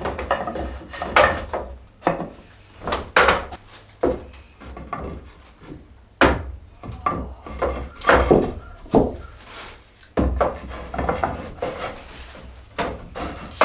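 Wooden loft ladder parts being handled and fitted together: a string of irregular knocks and clunks of wood on wood, with some rubbing and handling noise.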